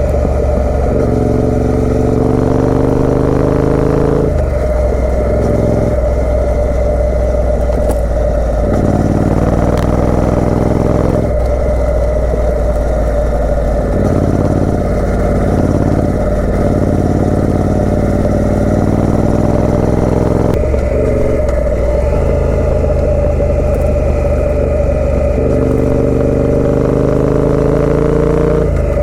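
Exhaust of a Triumph Speed Twin 900's parallel-twin engine through British Customs aftermarket mufflers while riding. Its pitch rises under acceleration, breaks and drops at each gear change, and climbs again several times.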